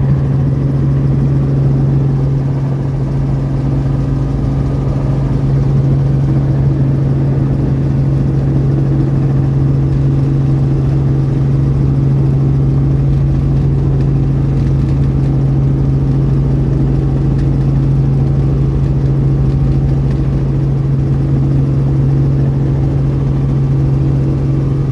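Loud, steady drone of a helicopter heard from inside the cabin: one strong low hum over an even engine and rotor rumble, unchanging throughout.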